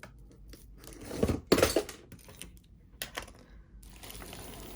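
Hands rummaging through a tangled clump of thrifted jewelry and beads: rustling and crinkling, loudest about a second and a half in, with a sharp click near three seconds.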